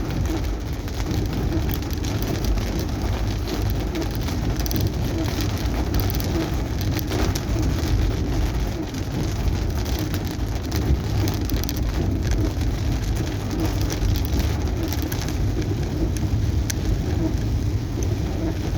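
Rain falling steadily on a car's roof and windscreen, heard from inside the car as patters over the low, steady rumble of the car driving on the road.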